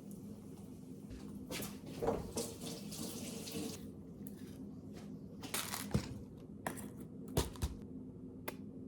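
A tap running briefly into a sink, with several sharp clicks and knocks of things being handled, over a steady low hum.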